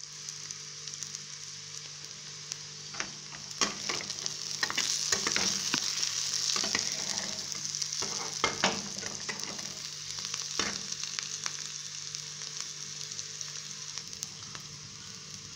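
Chopped green beans sizzling in oil in a frying pan, with a steady hiss. A steel spatula stirs and scrapes them, with clicks and scrapes from about three seconds to about eleven seconds in.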